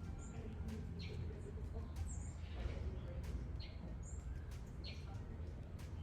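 Wild birds chirping, with short high calls repeating every half second or so, over a steady low rumble.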